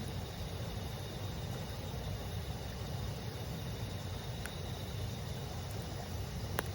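A stream murmuring steadily, with insects chirping in a thin, high, steady tone over it, and a wood campfire crackling, with one sharp pop of burning firewood near the end.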